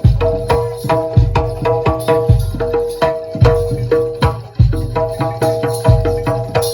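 Live jaranan dor music from a Javanese ensemble: a fast, driving pattern of hand drums and deep bass drum strokes under a held, stepwise melody line.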